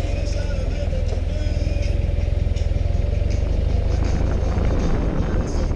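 BMW RT touring motorcycle's engine running steadily at low speed, with a steady whine and tyre noise from a gravel surface.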